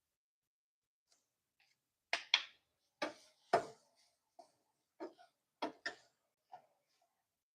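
A cooking utensil knocking against a pan, about ten short sharp clacks in irregular pairs and bunches starting about two seconds in.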